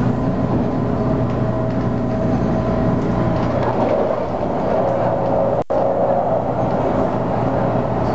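MTR Tung Chung Line A-Train electric multiple unit running along the line, heard from on board: a steady rumble of wheels on rail with a steady hum from the running gear. The sound cuts out for an instant about five and a half seconds in.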